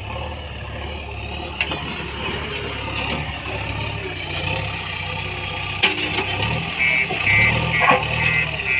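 JCB 3DX backhoe loader's diesel engine running steadily while working, with a few sharp knocks; near the end a fast, high, repeated beeping starts.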